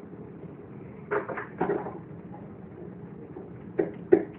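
A few short knocks and clicks over a steady low room hum: a pair about a second in, another soon after, and two more near the end, the last the loudest.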